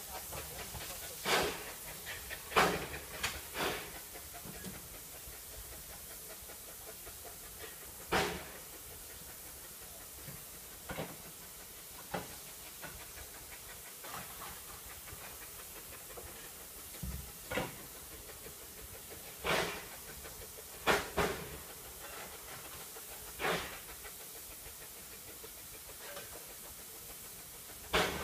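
Narrow-gauge steam locomotive standing with a steady hiss of steam, broken by a dozen or so short knocks scattered every few seconds.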